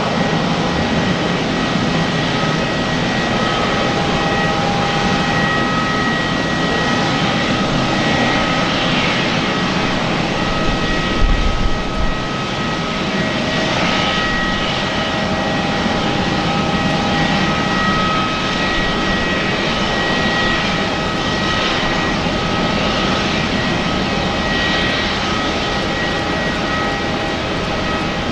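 Airbus A350-941's Rolls-Royce Trent XWB jet engines running, a steady whine of several held tones over an even rush of noise. A brief low rumble comes about eleven seconds in.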